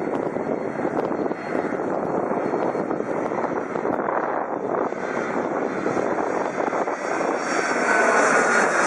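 Jet airliner passing over with a steady rushing engine noise that grows louder about seven seconds in, a faint high whine rising above it near the end.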